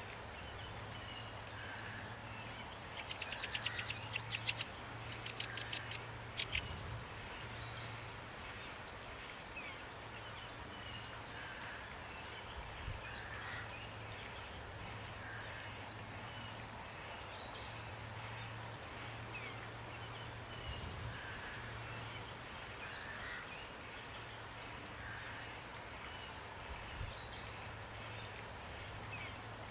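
Steady rain hiss under birds calling over and over in short, high, falling chirps, with a rapid rattling trill about three to seven seconds in. A low hum comes and goes underneath.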